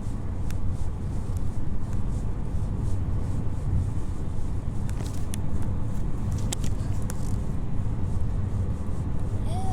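A car moving along the road, heard from inside the cabin: a steady low rumble of road and engine noise, with a few faint clicks in the middle.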